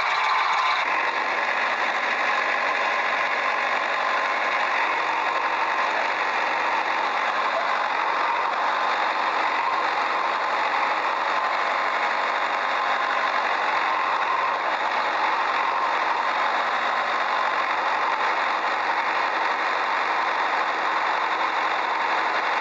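An engine running steadily at idle, with a knocking, rattly character.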